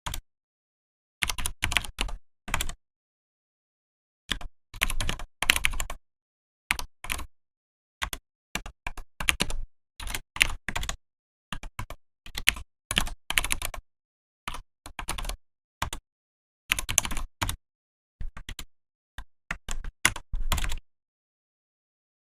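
Mechanical keyboard (Vortex PKX-1040 Type F) being typed on in uneven bursts of rapid key clicks, separated by short pauses of total silence.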